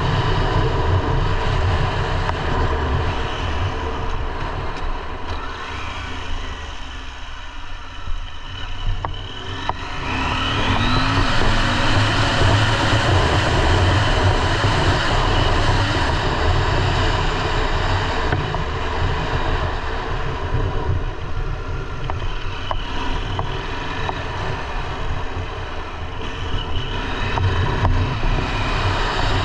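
KTM 890 Adventure R's parallel-twin engine running under way. It eases off about seven to nine seconds in, then pulls again with a rising pitch about ten seconds in, and dips and picks up once more near the end.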